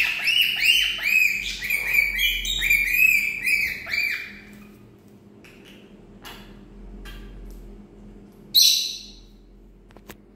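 A parrot calling: a fast, loud run of arched chirps, about four or five a second, for roughly the first four seconds, then a few quieter short calls and one harsh screech near the end.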